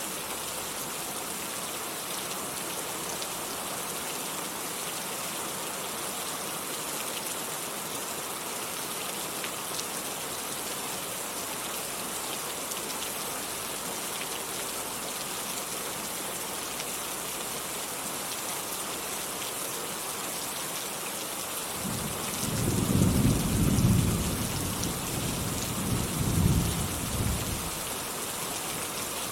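Steady rainfall hissing throughout, with a loud roll of thunder about three-quarters of the way through that rumbles for about six seconds, peaking twice.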